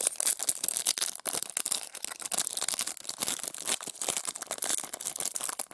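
Foil wrapper of a trading-card pack crinkling and tearing as it is opened by hand, a dense, irregular crackle.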